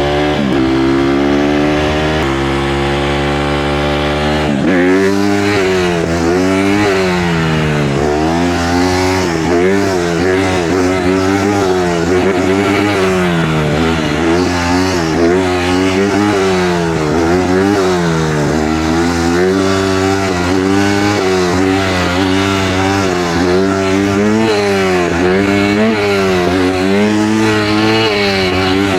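Honda CRF150R dirt bike's single-cylinder four-stroke engine under way as it is ridden. The pitch climbs steadily for the first four seconds or so, then rises and falls every second or two with the throttle and gear changes.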